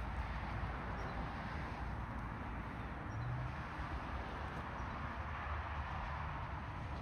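Steady outdoor background noise with a constant low rumble and hiss, and a few faint high chirps.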